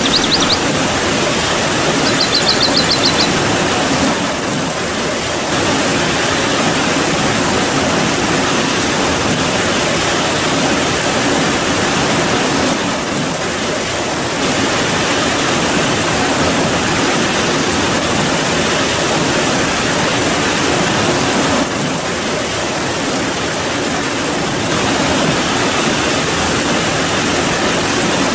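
Steady, heavy rainfall, a dense even hiss, with a brief high trill about two seconds in.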